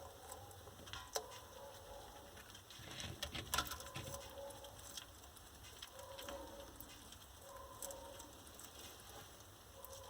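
Scattered small clicks and taps from a bearded dragon feeding on calcium-dusted lobster roaches, with a brief cluster of louder clicks about three to four seconds in.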